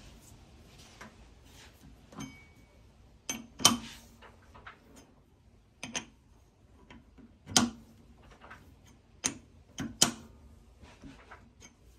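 Irregular clicks and clinks of hard metal parts being handled and set down, with four or five louder knocks that ring briefly.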